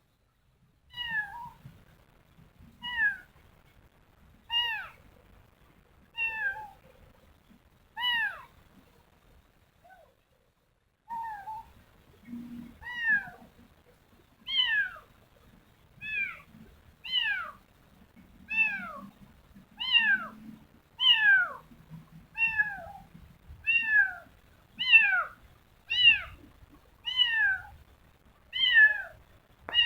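Kitten meowing over and over, each meow a high call that falls in pitch. The meows come about every two seconds at first, pause briefly about ten seconds in, then come faster and louder, about one a second.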